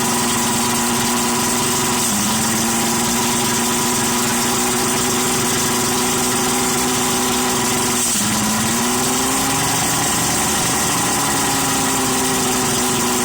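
Boat motor running at a steady idle. Its pitch dips briefly about two seconds in, dips again about eight seconds in, and then climbs back up.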